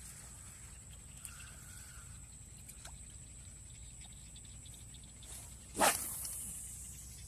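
A single sudden splash of water about six seconds in, fading away over a second, over a faint steady background with a few small ticks.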